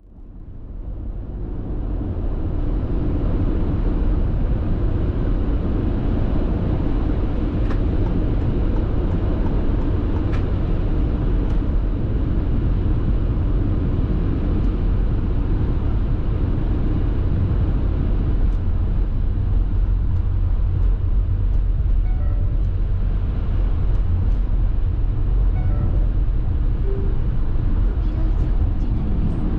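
Steady road and tyre noise heard from inside a moving car, a deep low rumble with no engine note standing out. It fades in over the first couple of seconds.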